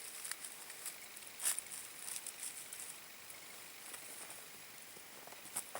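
Knife blade shaving thin curls off a stick of wood for kindling, in short, irregular scraping strokes.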